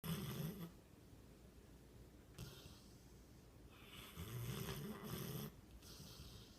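Mastiff dog snoring in deep sleep: a deep, rasping snore at the start, a faint breath a couple of seconds later, then a longer loud snore about four seconds in.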